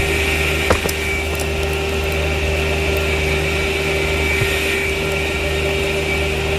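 A machine's engine running steadily with a constant whine, and a sharp click about a second in.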